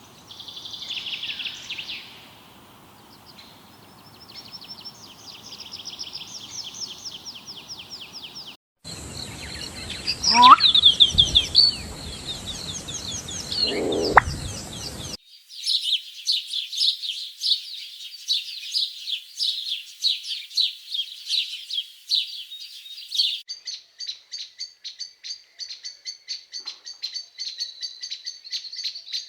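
Birds chirping and calling in several short clips cut one after another. Near the end the calls turn into a rapid, evenly repeated chirping.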